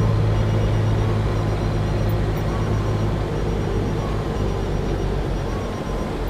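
Semi truck's diesel engine running steadily, heard from inside the cab as a deep, even hum that eases off slightly.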